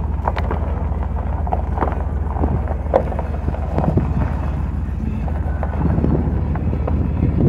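Vehicle engine running with a steady low rumble while the vehicle rolls slowly, with scattered light clicks and taps over it.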